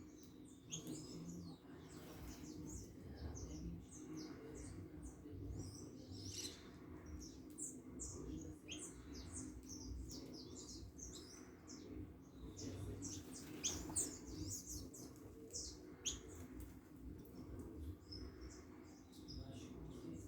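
Small birds chirping: many short, high chirps, some overlapping, with a few louder ones around the middle.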